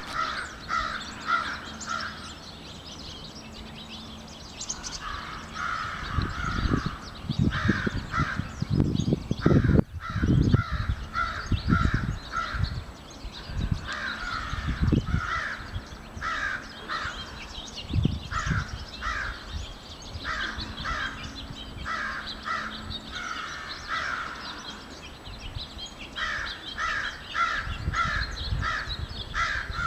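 Crows cawing in repeated runs of several short, harsh caws, coming again and again: alarm calls warning of a person nearby. Low rumbles come and go beneath them.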